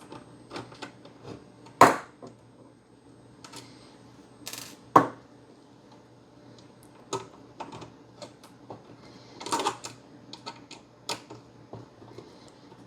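Irregular clicks and taps of a small bit driver and tiny screws being worked out of a console's internals, with two sharp knocks about two and five seconds in and a quick cluster of clicks near the end.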